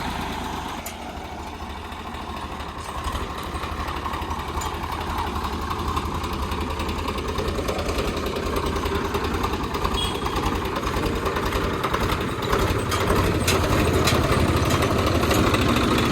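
Swaraj 735 tractor's three-cylinder diesel engine running with a steady firing beat, dipping a second in and then growing louder toward the end as it works harder.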